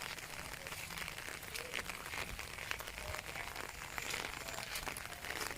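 Rain falling steadily, a dense patter of drops ticking irregularly over a constant hiss.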